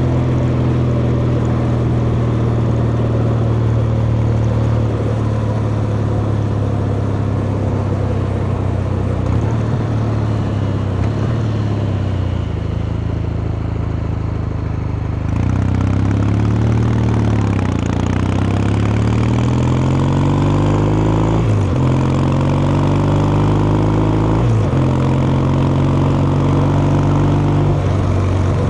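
Kawasaki Meguro K3's air-cooled vertical-twin engine and exhaust under way, running steadily for the first half. About halfway through it accelerates with its pitch rising, drops suddenly twice on upshifts, then holds a steady cruise.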